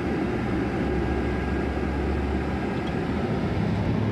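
Van engine and road noise heard from inside the cabin while driving: a steady low rumble, with a deeper drone that strengthens for about a second and a half.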